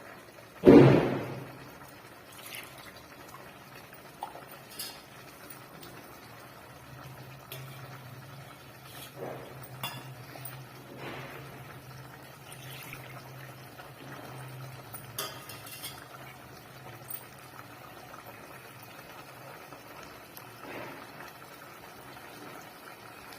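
Spoon clinking and knocking against a cooking pot as chicken masala is stirred, with one loud knock about a second in and scattered clinks after it.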